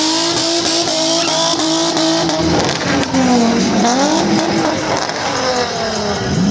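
Car or truck engine revved hard in a burnout, held at high revs, easing off about three seconds in, then climbing and falling again, over a steady hiss of spinning tyres.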